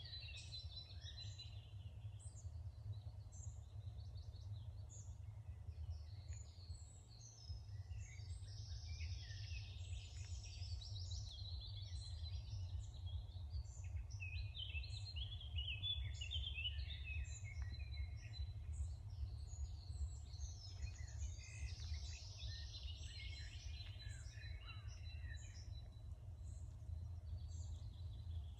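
Dawn chorus: several songbirds singing and calling over one another in short chirps and trills, over a steady low rumble.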